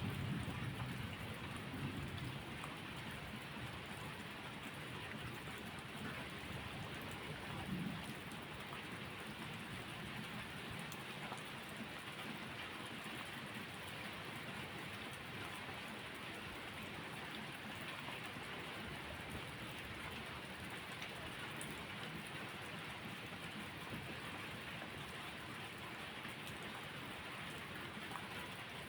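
Steady heavy rain falling, with a low rumble of thunder fading over the first couple of seconds and another short rumble about eight seconds in.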